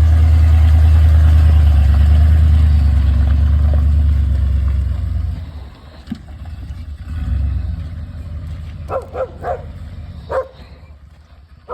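1991 Ford F-150 pickup's engine running with a loud, steady low rumble, which falls away about five seconds in. Near the end a dog barks several times.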